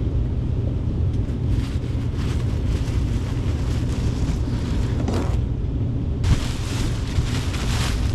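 Steady low rumble of an indoor HVAC unit running in a ceiling space, with brief rustling of filters being handled, loudest about six to eight seconds in.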